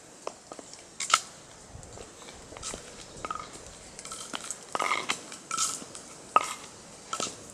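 Footsteps crunching on dry leaves and twigs of a forest path: a string of sharp, irregular crackles, loudest about a second in and again past six seconds.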